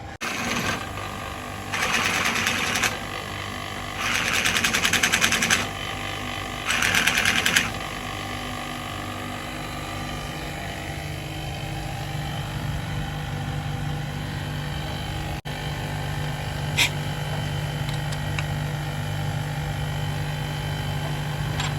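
A workshop power tool running in three short bursts of rapid rattling, each a second or so long, followed by a steady low motor hum with a single sharp click.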